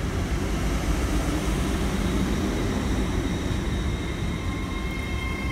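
Hitachi Class 800 Azuma train running past at close range, a steady low rumble of wheels and running gear. From about halfway a steady high-pitched tone comes in and grows.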